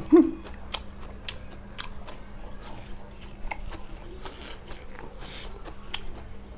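A person chewing and biting food close to the microphone, with irregular small crunches and wet mouth clicks.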